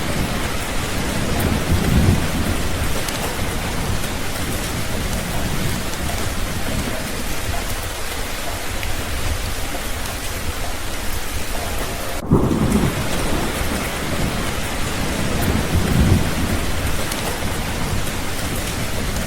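Steady rain with low rolls of thunder. The rumbles swell about two seconds in, again just after twelve seconds, and around sixteen seconds.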